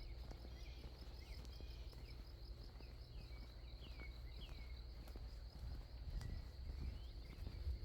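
Outdoor ambience with a steady high, evenly pulsing chorus of calling insects, and several short downward-sliding bird calls scattered through it, over a low rumble.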